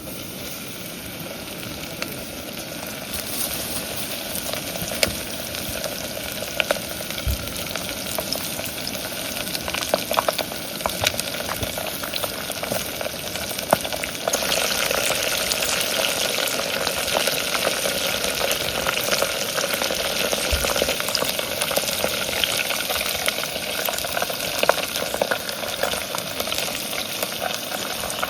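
Chicken karaage coated in rice flour frying in hot rice oil: a dense sizzle full of small crackles, growing louder about halfway through, with a couple of soft knocks.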